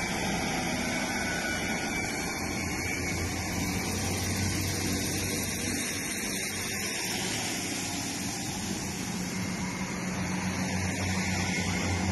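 Northern diesel multiple unit pulling away from the platform and running past close by: a steady rumbling run with an engine hum that grows louder near the end.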